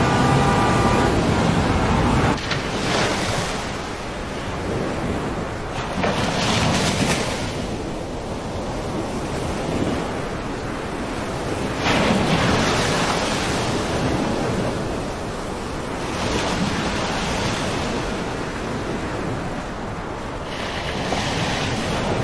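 Loud rushing of floodwater, swelling and easing every few seconds. A steady siren-like tone ends about a second in.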